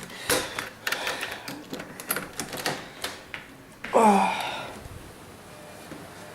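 A rapid run of clicks and knocks, like a damaged porch door's latch and frame being worked, then a short squeak sliding down in pitch about four seconds in as the door swings open. A steady hiss of heavy rain follows.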